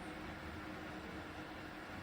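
Ceramic fan heater running, its fan giving a steady airy whir with a faint constant hum.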